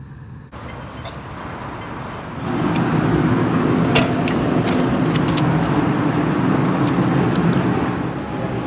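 Steady rumbling vehicle noise that grows louder about two and a half seconds in and holds, with a sharp click about four seconds in.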